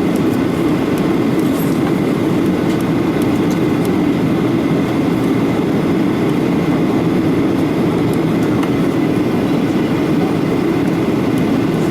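Steady in-flight cabin noise of a jet airliner: engine and airflow rumble heard from inside the passenger cabin, even in level, with a faint steady high whine above it.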